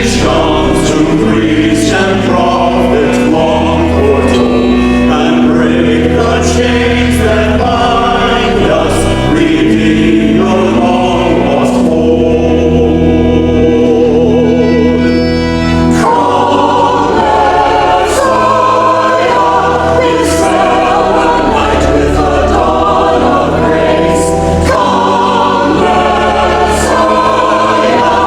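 A church choir singing a sacred Advent or Christmas piece in held phrases, several voice parts together over sustained low notes.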